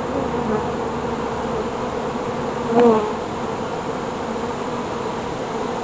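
Honeybees buzzing around an open hive, a steady droning hum of many bees, with one brief louder buzz about halfway through.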